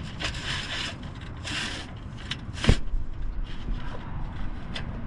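Scraping and rubbing as wire is worked through the boat, in short bursts, with one sharp knock a little past halfway and a few light ticks after.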